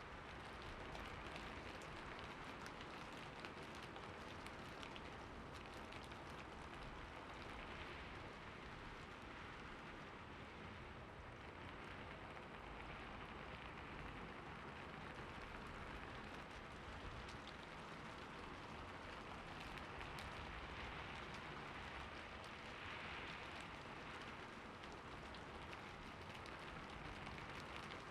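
Steady rain falling, a constant hiss with fine patter of drops striking a surface.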